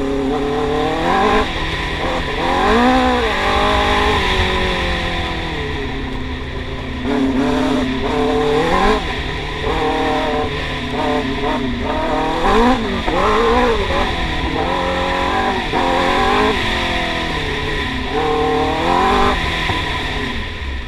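Yamaha R6 inline-four engine in a YFZ450 quad, run hard, its pitch climbing and dropping back several times as the throttle is opened and closed.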